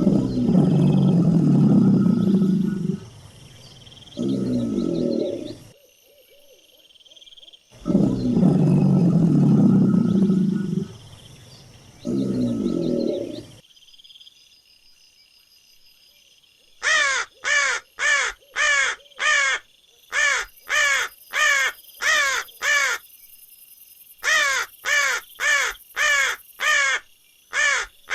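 Two pairs of deep, loud calls from a large animal, each a long call of about three seconds followed by a shorter one. After a pause, a crow caws in rapid runs of harsh calls, two to three a second.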